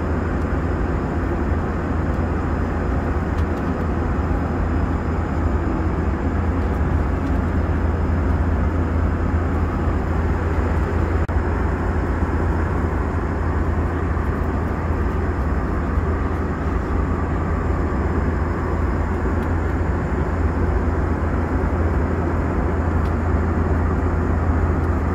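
Airbus A321 cabin noise at cruise: a steady low roar of airflow and engines, with a faint steady high whine over it.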